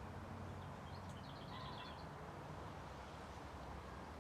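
Quiet background with a low steady hum, and a brief faint bird twittering about a second in.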